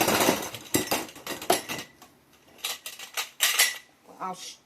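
Metal greenhouse frame poles clattering and clinking together as they are handled, with a run of sharp knocks and some rustling.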